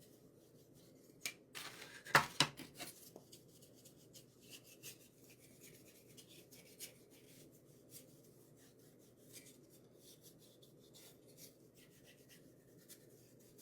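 Small handling noises of craft work on wooden pieces: scattered light clicks, taps and rubbing, with a louder clatter about two seconds in, over a steady low room hum.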